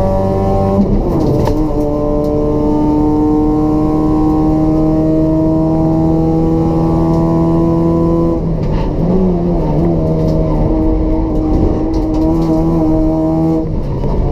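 Toyota Etios race car's 1.5-litre petrol engine with free-flow exhaust, running hard at racing speed. The pitch climbs slowly and steadily, with abrupt breaks about a second in, around eight and a half seconds, and near the end, as gears are changed.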